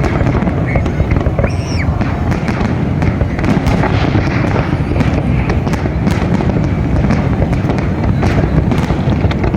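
Fireworks display: a dense, continuous rumble of booms with many sharp crackling pops throughout.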